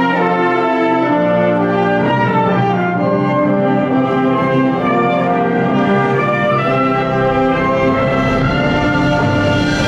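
School wind band playing, with brass (trumpets, horns, trombones) in sustained chords that change every second or two. A bright hiss swells in near the end.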